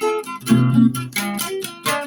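Acoustic guitar improvising: several plucked and strummed chords struck in turn, each left to ring briefly before the next.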